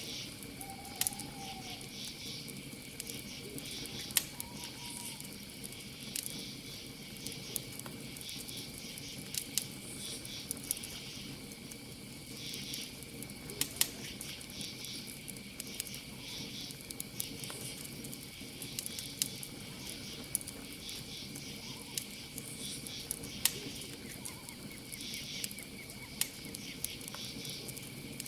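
Campfire crackling with scattered sharp pops, over a steady high-pitched cricket trill and pulsing insect chirps.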